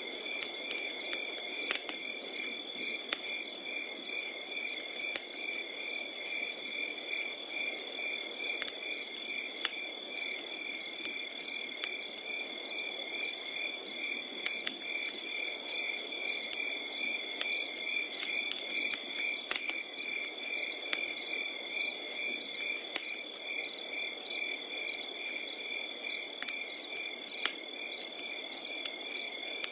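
Crickets chirping in a steady pulsing chorus over a crackling wood campfire, with sharp pops from the fire scattered throughout.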